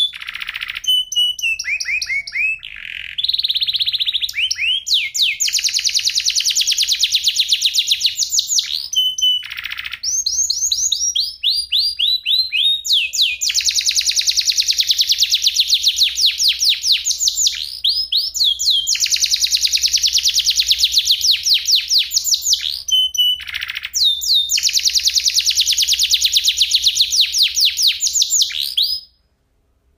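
Domestic canary singing a long rolling song of fast high trills and rapidly repeated notes, with a few short breaks between phrases; the song stops near the end.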